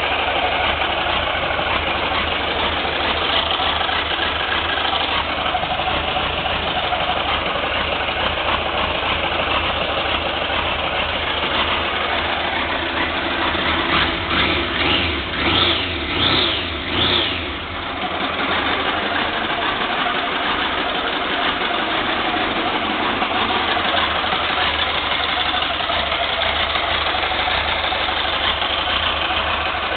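Triumph Trophy 1200 motorcycle engine running at idle, with a handful of quick throttle blips about halfway through that rise and fall in pitch, before it settles back to a steady idle. This is a test run to show the engine runs.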